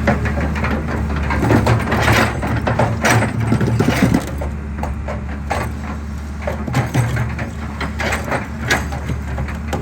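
Excavator diesel engine running steadily while concrete cracks and crumbles under the machine, with irregular sharp cracks and knocks. The cracking is busiest in the first four seconds and sparser after.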